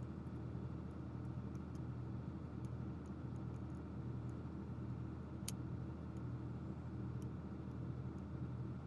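Steady low background hum with a few faint light clicks and one sharper click about five and a half seconds in, the small clicks of plastic toy parts being handled.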